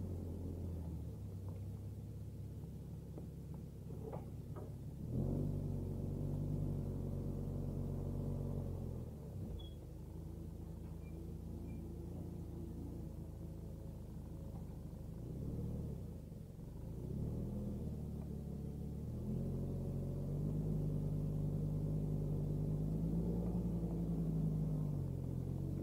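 1990 Jeep Cherokee XJ engine running. Its pitch steps up about five seconds in, drops back a few seconds later, and rises again for the last third, holding higher to near the end.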